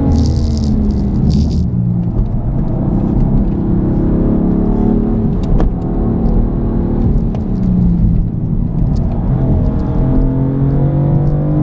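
BMW M4's twin-turbo straight-six engine pulling hard from inside the cabin, its pitch climbing and dropping in turn as the car accelerates and comes off the throttle. There are two short high hisses in the first two seconds.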